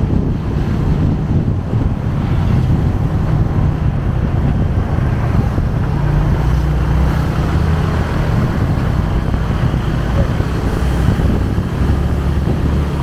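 Motorcycle engine running steadily under way with a low, even rumble, mixed with wind rushing over the microphone.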